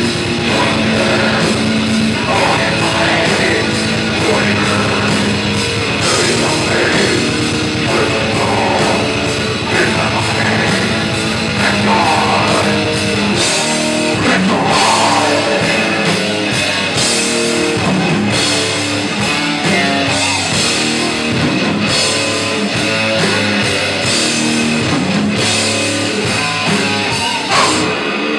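A death metal band playing live: heavily distorted electric guitars over a drum kit, loud and dense, with the deepest bass thinning out about halfway through.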